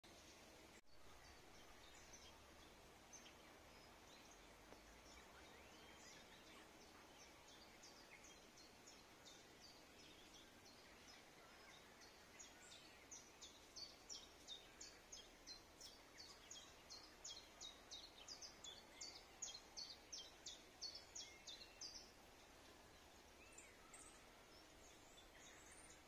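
Faint bird chirping: scattered short high chirps, then, from about halfway through, a quick run of them at two or three a second for about ten seconds, over a low steady background hiss.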